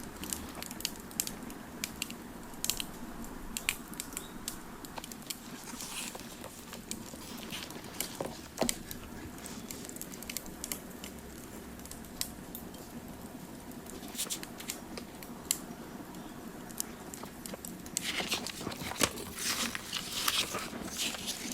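Wood fire crackling: irregular sharp pops and snaps over a steady low hiss, busier near the end.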